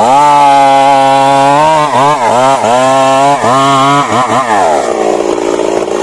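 Stihl MS 382 two-stroke chainsaw running at high revs, its pitch dipping briefly several times in the middle, then falling away about four and a half seconds in as the engine note blurs into a rougher, noisier sound.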